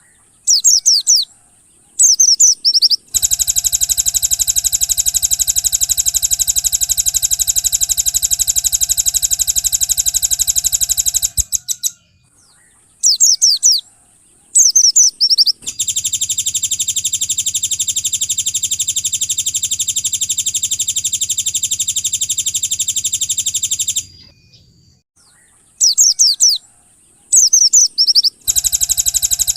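Looped recording of small songbird song: a few short, high, quick descending chirps, then a long rapid trill lasting about eight seconds, the cycle repeating three times.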